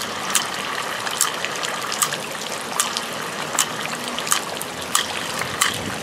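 Steady rain falling, an even watery hiss, with irregular sharp ticks about once or twice a second.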